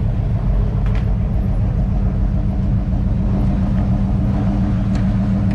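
Car engine running steadily at low speed with a deep, even rumble as cars roll in slowly.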